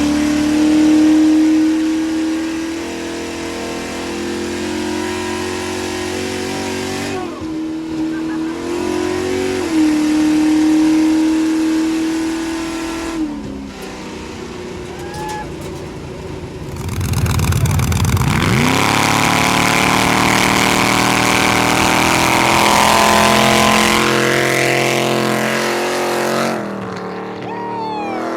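Race truck's engine held at high revs for a burnout, dipping and coming back up twice. About two-thirds of the way in it revs up again and the rear tires spin with a loud hiss for several seconds before the revs drop.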